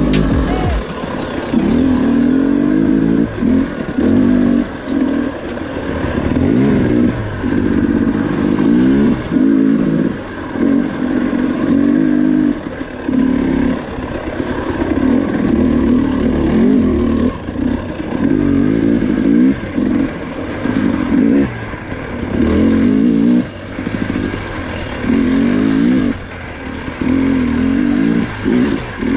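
Two-stroke KTM dirt bike engine revving hard in short bursts, rising and dropping again and again every second or two.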